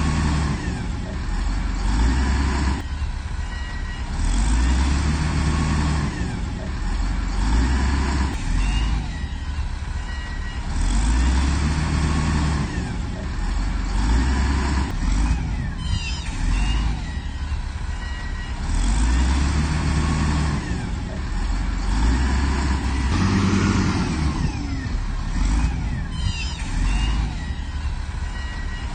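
Heavy diesel earthmoving machine working, its engine running deep and loading up and easing off every few seconds. A few short high metallic squeaks come through around the middle and near the end.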